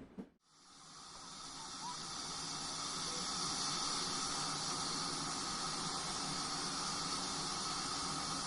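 A steady hiss that builds over the first couple of seconds and then holds, with a few faint bird-like chirps.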